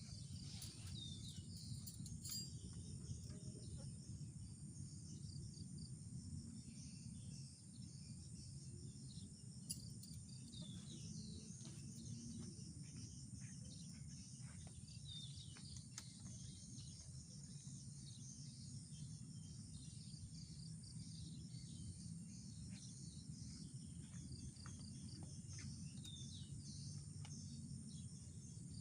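Tropical forest ambience: a steady chorus of crickets and other insects with scattered short bird chirps, over a low steady rumble.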